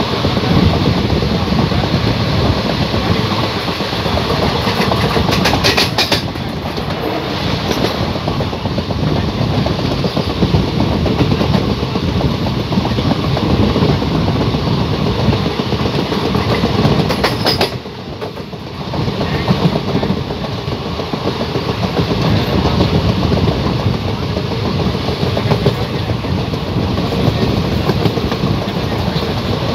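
Train running noise heard from inside a coach at the window: a steady rumble of wheels on rail. A few sharp clicks come about six seconds in and again a little past halfway, followed by a brief drop in loudness.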